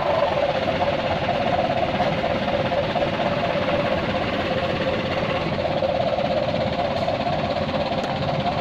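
Mitsubishi Colt Diesel dump truck's diesel engine running steadily at an even low speed with a rapid, rhythmic diesel clatter.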